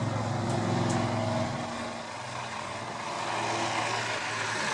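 Off-road trial truck engine running steadily, easing off a little about two seconds in.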